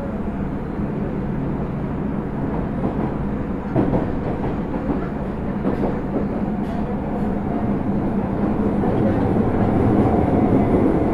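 Osaka Metro 30000 series subway train heard from inside a car while running: a steady rumble of wheels on rail, with a single knock about four seconds in, growing louder over the last few seconds.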